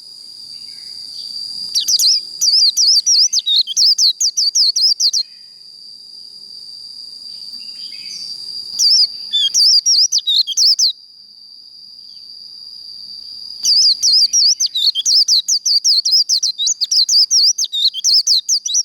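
White-eye (vành khuyên) singing its rapid, warbling 'líu' song in three bursts: about two seconds in, around nine seconds, and a longer one over the last five seconds. Between bursts a steady, thin, high-pitched tone swells in loudness.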